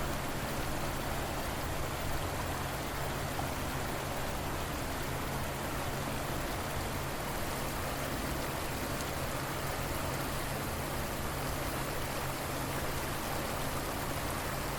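River water flowing, a steady, even rush of water with no breaks or separate splashes.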